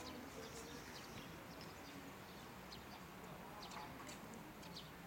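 Small birds chirping in short, scattered calls over faint background voices.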